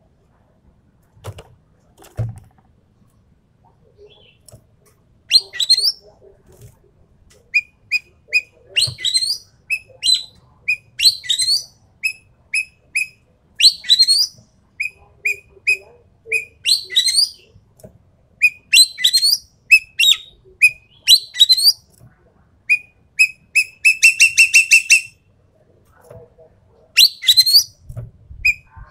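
Sumatran ekek keling (green magpie) calling. Short whistled notes repeat in threes and fours between loud upward-sweeping calls, with a quick rattling run of notes near the end. The calls start about five seconds in, after a few faint knocks.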